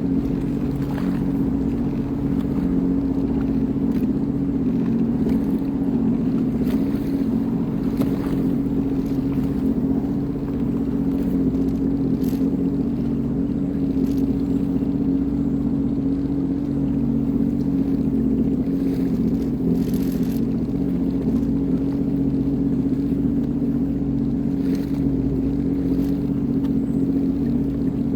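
Sea-Doo Fish Pro personal watercraft engine running at a steady speed, with an even, unchanging drone.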